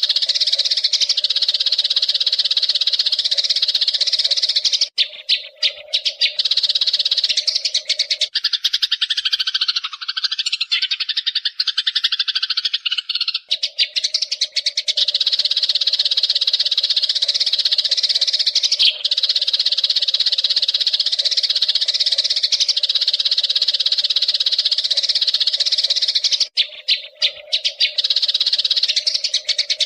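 Eurasian tree sparrows chattering in a rapid, continuous stream of high chirps over a steady low hum. From about eight seconds in, a lower warbling song takes over for about five seconds, then the chattering returns.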